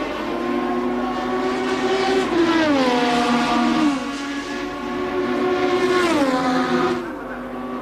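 1988 Formula One race cars' engines at full speed, a high-pitched engine note that drops sharply in pitch twice, about two and a half and six seconds in, as cars go past.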